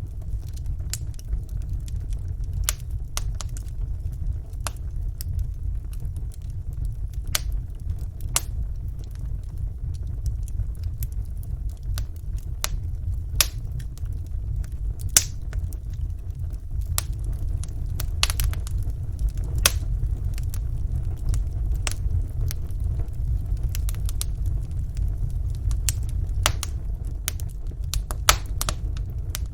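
Wood fire burning in a fireplace: a steady low rumble of the flames with irregular small crackles and pops from the burning logs.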